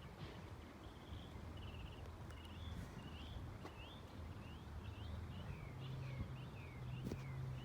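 A small bird chirping over and over in short quick notes, about two a second: rising notes at first, falling ones in the second half. A low steady rumble lies underneath.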